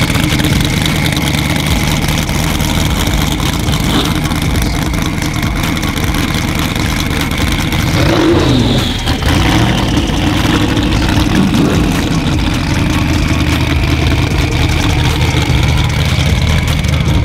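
Car engines idling and running steadily, with one engine revving and dropping back in pitch about eight to nine seconds in.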